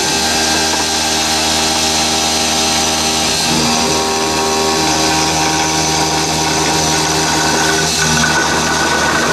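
CNC milling machine running with its cutter cutting the workpiece: a steady motor whine made of many tones, shifting slightly in pitch a few times.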